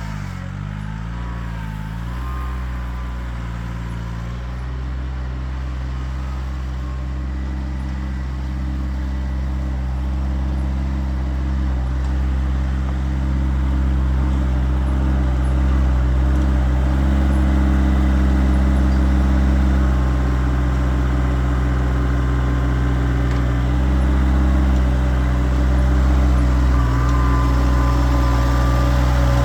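Kioti tractor's diesel engine running, its speed wavering for the first couple of seconds and then holding steady as it grows slowly louder.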